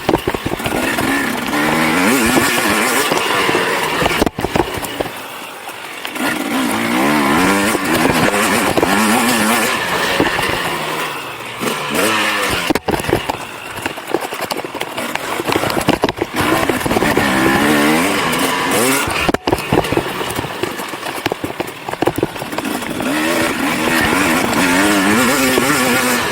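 2019 KTM SX 250 two-stroke motocross engine, bored out to 300 cc, revving up and down as the rider accelerates, shifts and shuts the throttle, with the engine note dropping away several times. A few sharp knocks come from the loosely mounted camera case.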